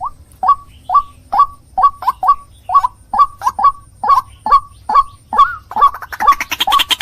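White-breasted waterhen (ruak-ruak) calling: short, loud croaking notes repeated about two to three times a second, often in pairs. Near the end the calling turns into a faster, denser chatter.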